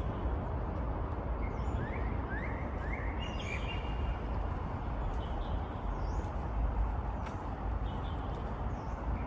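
Small birds chirping: a quick run of three short rising chirps a couple of seconds in, a brief higher call just after, and a few scattered chirps later, over a steady low background noise.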